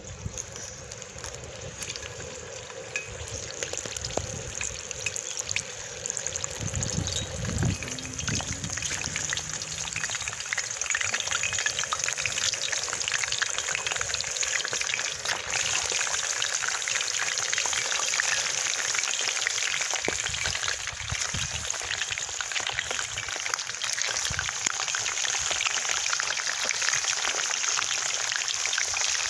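Chicken wings deep-frying in hot oil in a cast iron skillet: a dense crackling sizzle. It builds over the first ten seconds or so as more wings go into the oil, then holds steady.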